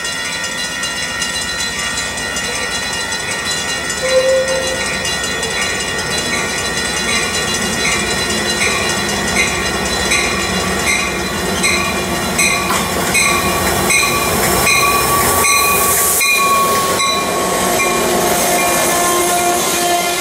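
Amtrak passenger train approaching and rolling into the station, its rumble growing louder as the coaches pass. A bell rings in an even rhythm and a short horn note sounds about four seconds in. In the last seconds a long squealing tone slowly falls in pitch as the train slows.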